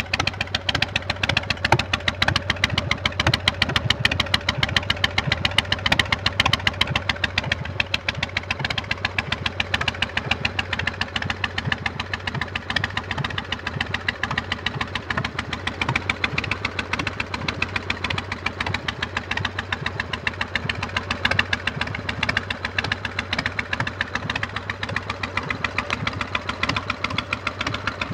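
Custom Harley chopper's V-twin engine idling steadily, a rapid pulsing beat of exhaust firings.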